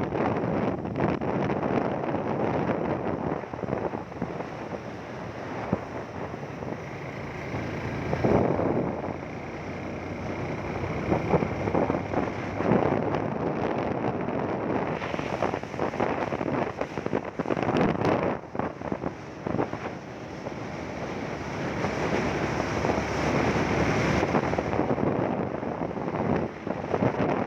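Wind buffeting the microphone on a moving motorcycle, mixed with engine and road noise, rising and falling in gusts.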